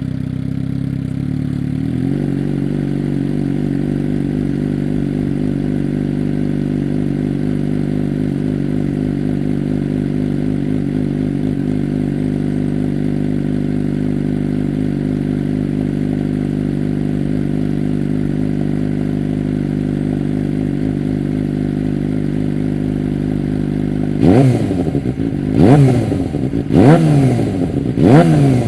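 Suzuki GSX-R600's inline-four engine through a Yoshimura aftermarket exhaust, idling steadily just after starting. Near the end it is revved in four quick throttle blips, each rising and dropping straight back to idle.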